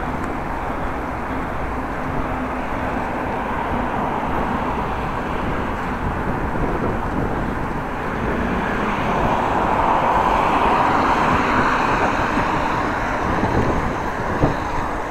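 Wind and road noise on a bike-mounted camera microphone while cycling, with a louder swell in the middle that fades again, and a short knock near the end.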